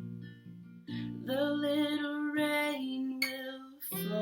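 Acoustic guitar strummed under a woman's voice singing a wordless line. A final chord is struck about four seconds in and left to ring.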